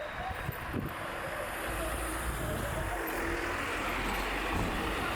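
Street traffic noise: a motor vehicle running by in the street, a steady rumble that swells a little about two seconds in.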